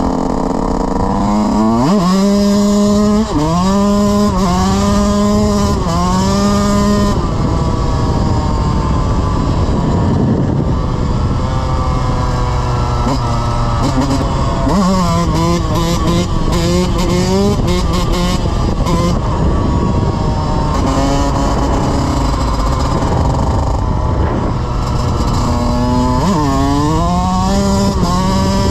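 Dirt bike engine accelerating up through the gears, its pitch climbing and dropping back at each shift several times in a row, with stretches of steadier running in between.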